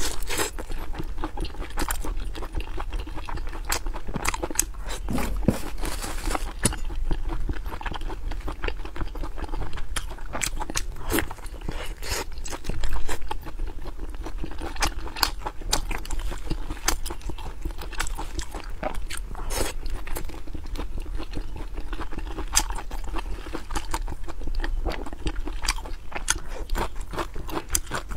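A person biting and chewing grilled sausages close to the microphone, with many short crunches and clicks throughout and one louder stretch about halfway through.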